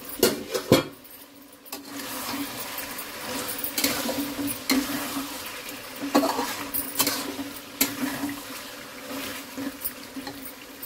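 Browned chicken pieces sizzling in oil in an uncovered pot, with a steady hiss and a metal spoon knocking and scraping against the pot as they are stirred. Two sharp clanks in the first second, as the pot's lid comes off.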